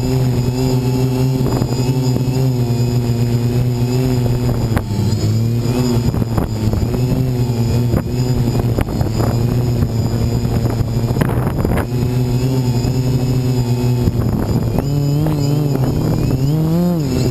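Brushless motors and propellers of a DJI Flame Wheel 450 quadcopter heard from a GoPro on board: a steady buzzing hum whose pitch dips and rises as the Naza flight controller corrects for strong wind, climbing briefly near the end. Short gusts buffet the microphone.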